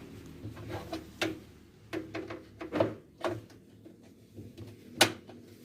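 Irregular plastic clicks and knocks, about half a dozen, the sharpest about five seconds in: parts being handled inside a Sharp top-loading washing machine's tub as its lint filter and pulsator are taken out.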